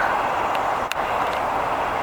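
Steady hiss of distant road traffic, with a single faint click about a second in.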